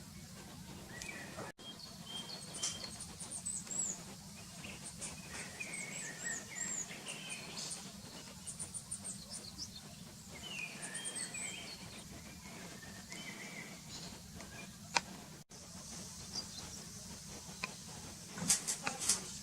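Red-breasted flycatcher calling: short, high chirps, many in quick series, some sliding downward. A faint steady low hum sits underneath, with a sharp click about three-quarters of the way through and a few more near the end.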